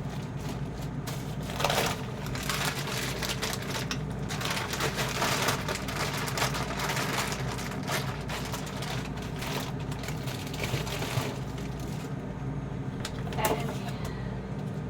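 Packages of frozen food rustling and crinkling as they are handled and slid onto freezer shelves, with a few knocks of items set down, over a steady low hum.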